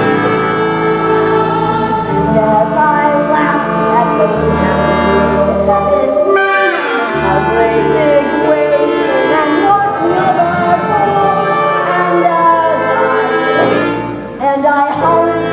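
Musical-theatre show tune: voices singing together over instrumental accompaniment, with steady low bass notes under the melody.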